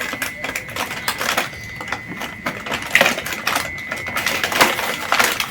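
Irregular clicking and clattering of hard plastic toys and packaging being handled, with a faint steady high whine underneath.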